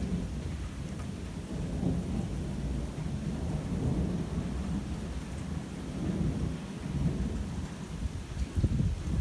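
Thunder rolling and rumbling over steady rain during an intense thunderstorm, swelling louder near the end.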